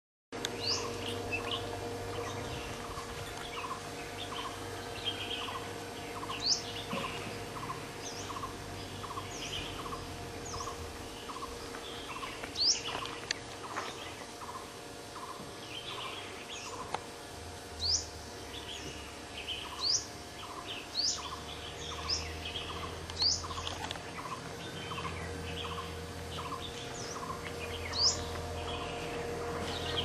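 Several birds calling: one repeats a short low note about every half second, while others give sharp, quickly rising whistles and scattered chirps. A steady hum runs underneath, and a low rumble comes in about halfway through.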